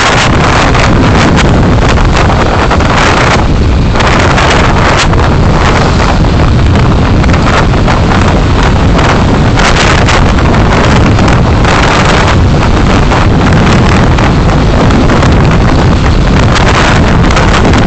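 Loud rushing road and wind noise of a moving car, picked up by a dashcam microphone, with constant flutter on the microphone.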